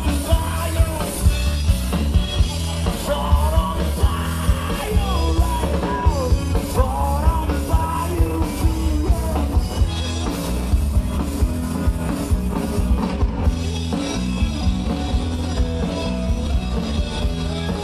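Rock music: a voice singing over guitar and drums for about the first half, then the band playing on without singing, with a steady drum beat throughout.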